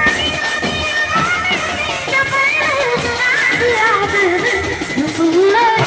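Live band music: a wavering, ornamented lead melody carried over a steady accompaniment.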